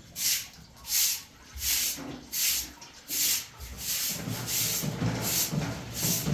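Rhythmic scraping strokes, about one every 0.7 s, quickening to about two a second about four seconds in.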